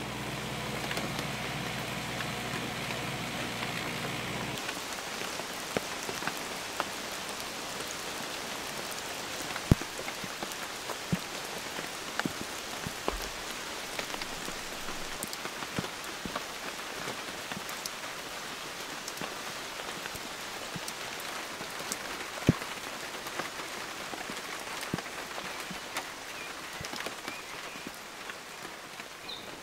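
Steady rain hiss with scattered heavy drops landing close by as sharp taps. For the first four seconds or so a mini excavator's engine runs underneath, then cuts off abruptly.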